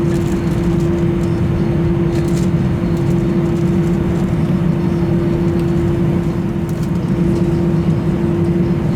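Airbus A320 cabin noise with the engines at idle before takeoff: a steady rumble with one constant hum running through it.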